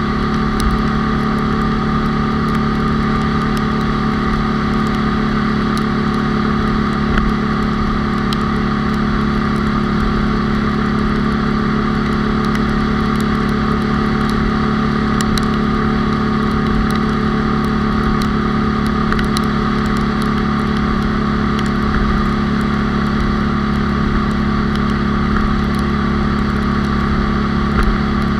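A Honda Cub's 97cc single-cylinder four-stroke engine on a high-geared four-speed bike, running at a steady cruise with its pitch holding level. Wind rumbles on the microphone underneath.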